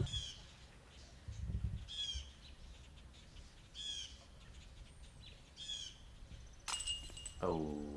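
A bird gives the same short, falling call about every two seconds. Near the end there is a brief bright jangle, and then a voice is heard.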